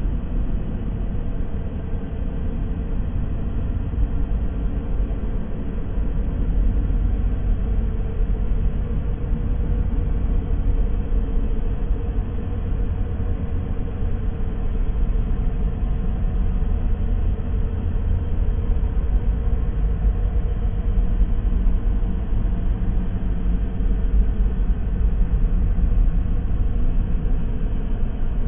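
Horror sound-effect drone: a steady, deep rumble with faint held tones above it, unbroken throughout.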